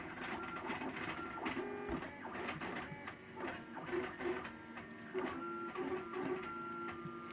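MakerBot Thing-O-Matic 3D printer's stepper motors whining through print moves mid-print, a string of short steady tones that jump in pitch every fraction of a second, with a few faint clicks.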